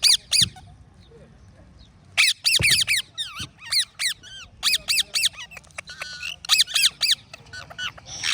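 Parrot squawking: rapid runs of short, sharp, high-pitched calls, with a pause of about a second and a half near the start before the calling resumes in bursts.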